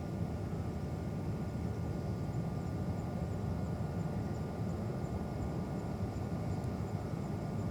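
Distant jet airliner engines, a steady low rumble.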